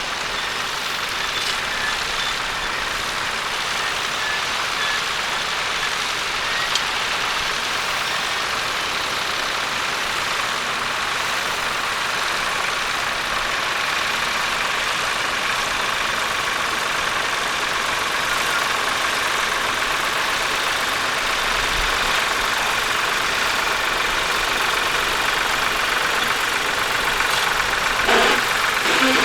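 Tractor engine running steadily at an even pitch, with a short higher sound near the end.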